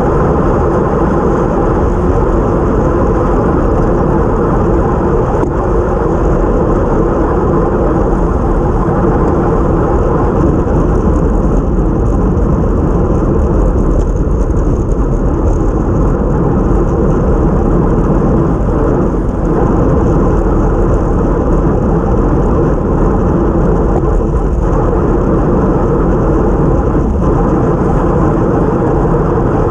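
Steady wind rush and road noise on the microphone of a camera mounted on a time-trial bike riding at race speed on a wet road, loud and unbroken.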